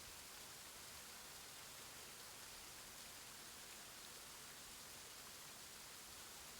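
Faint, steady, even hiss from a rainforest nature-sound bed, a rain-like wash with no distinct calls or events.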